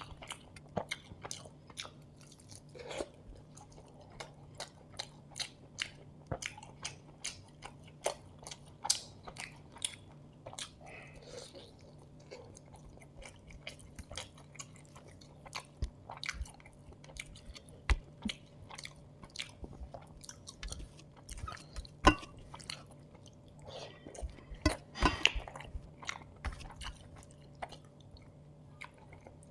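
Close-miked chewing of chicken biriyani: many short wet smacks and crunches, with a few louder bites in the second half.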